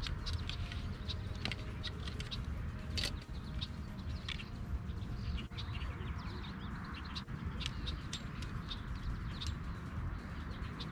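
Small birds chirping, with many short high calls throughout, over a steady low rumble. A few sharp clicks, the clearest about three seconds in.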